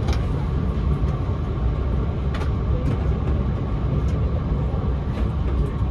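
Steady running rumble of an E4 series Max double-decker Shinkansen heard from inside the passenger cabin, with a few faint clicks over it.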